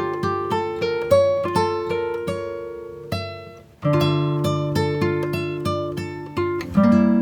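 Background music: an acoustic guitar picking single notes over held bass notes. The notes die away a little past three seconds in and start again about four seconds in.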